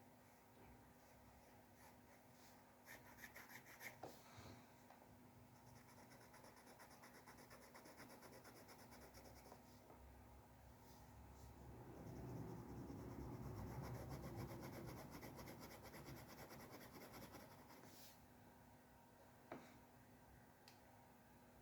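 Faint scratching and rubbing of drawing tools on paper. A few quick scratchy strokes come a few seconds in, a longer rubbing swell follows in the middle, and there is a single click near the end.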